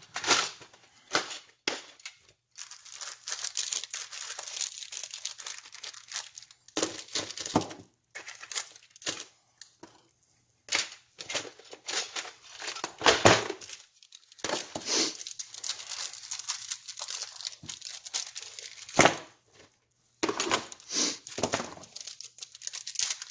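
Packaging being torn and crinkled open by hand, in irregular rustling bursts with short pauses.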